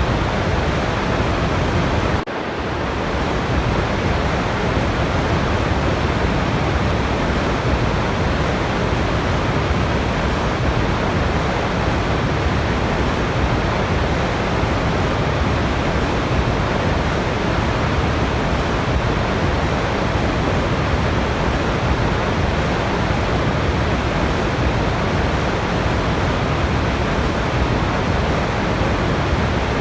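Steady, dense rushing of a waterfall, an even roar of falling water. About two seconds in it briefly dips and swells back to the same level.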